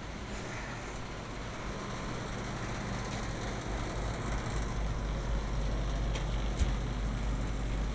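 Steady hum of a rooftop HVAC unit's fans running, slowly growing louder, with a few faint clicks near the end.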